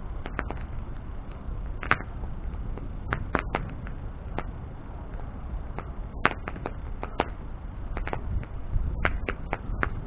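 Wood bonfire burning: irregular sharp crackles and pops of burning wood over a low, steady rush, with louder snaps about two seconds and six seconds in.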